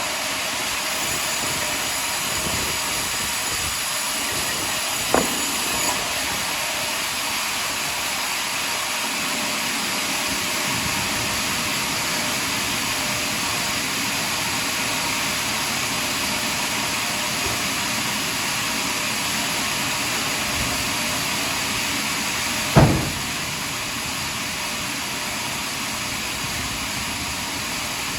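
Portable sawmill blade cutting steadily through a large pine log, a continuous hissing machine noise. There is a short knock about five seconds in and a louder one near the end.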